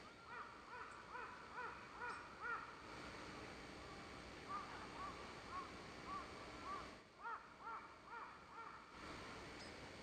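A bird calling in three runs of short, repeated notes, each note rising and falling in pitch, about three a second, with brief pauses between the runs.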